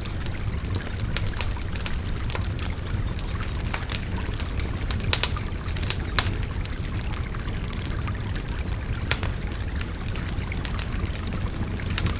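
Wood fire crackling, with frequent sharp, irregular pops, over a steady babbling stream.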